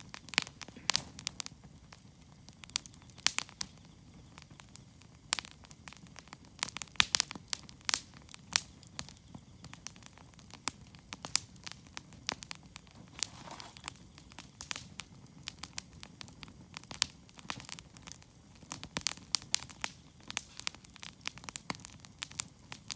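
Wood campfire crackling, with many sharp, irregular pops and snaps over a low, steady rush of burning.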